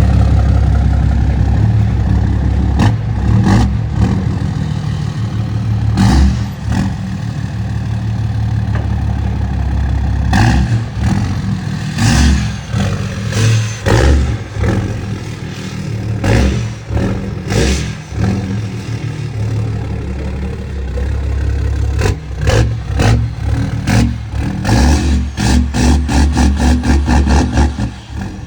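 Ram 2500's 6.7 Cummins turbo-diesel inline-six running through a 5-inch exhaust, idling and being revved repeatedly, the exhaust note swelling and falling back several times.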